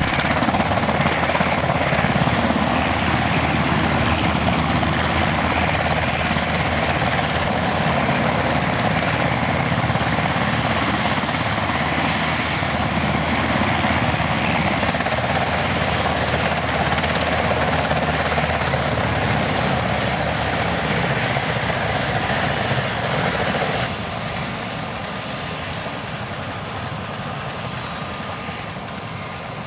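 Mitsubishi SH-60K helicopter's rotor and twin turboshaft engines running loud and steady, with a dense rotor wash. About 24 seconds in the sound drops suddenly and carries on noticeably quieter.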